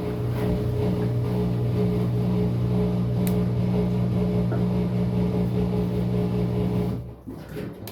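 Maytag MVWX655DW1 top-load washing machine's motor running with a steady hum, cutting off about seven seconds in.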